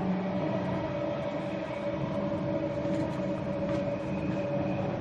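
Cabin noise of a Queensland Rail electric Tilt Train running at speed: a steady rumble from the running gear with a steady hum over it.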